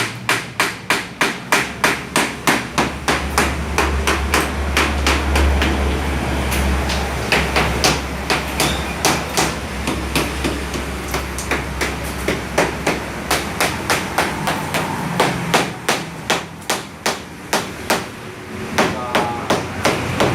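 A hammer striking repeatedly in an even rhythm, about two to three blows a second, with a low steady hum underneath for much of the time.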